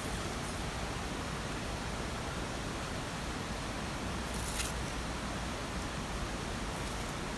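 Steady rushing water noise, with a brief high rustle about four and a half seconds in.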